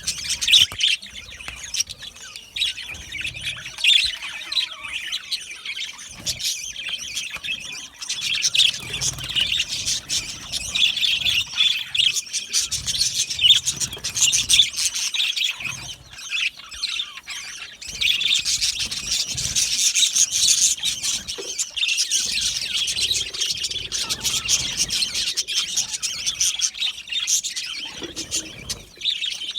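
A flock of budgerigars chirping and warbling continuously, many birds at once, with occasional sharper squawks.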